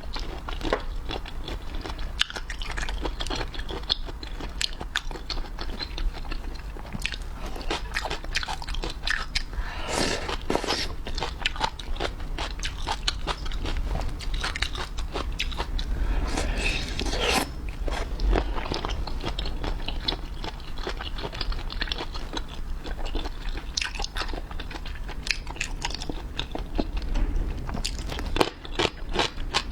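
Close-miked eating of seafood: biting, crunching and chewing, with a steady stream of sharp clicks and wet mouth smacks.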